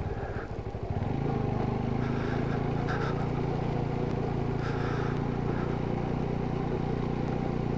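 Motorcycle engine running at a steady, even speed while riding, with a brief rougher patch about half a second in.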